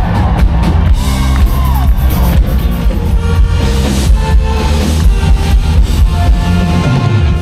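Live yacht-rock cover band playing at full volume through a concert sound system, with drum kit and a steady driving beat.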